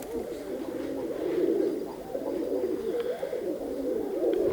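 Domestic pigeons cooing continuously, several birds overlapping in a steady warbling chorus.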